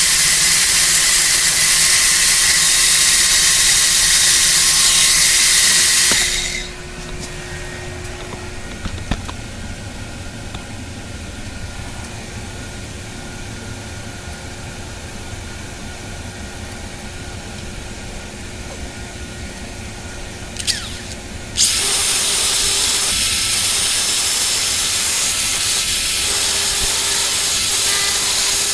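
Electric arc welding on steel bed-frame rail: a loud, crackling hiss for about six seconds that cuts off abruptly. After a stretch of steady welder hum, a short tap is heard and a second weld starts sharply and runs about seven seconds.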